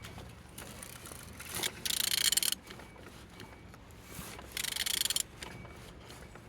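A removed Opel Z16XE 1.6-litre four-cylinder engine being turned over by hand with a wrench on the crankshaft. There are two short rasping bursts, about 2 s and 4.5 s in. The engine turns freely and is not seized.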